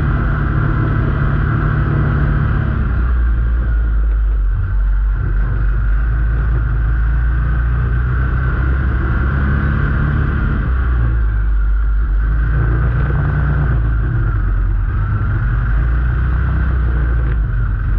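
Motor vehicle engine running continuously, its low pitch rising and falling as it is driven.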